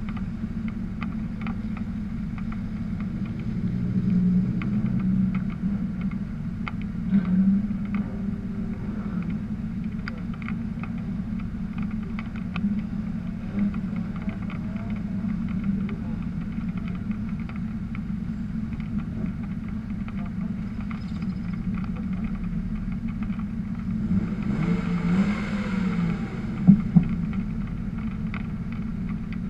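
Car engine idling steadily close by, while other drift cars drive past revving, their pitch rising and falling; the loudest pass comes about 25 seconds in, with two sharp bangs near its end.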